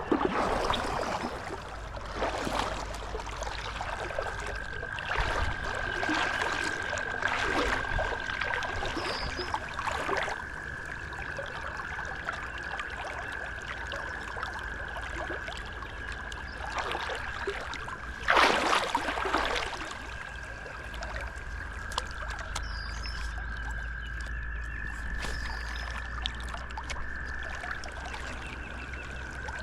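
Creek water running, with a frog's long steady high trill starting about four seconds in and carrying on throughout. Several loud splashing sweeps of water break in, the loudest about two-thirds of the way through.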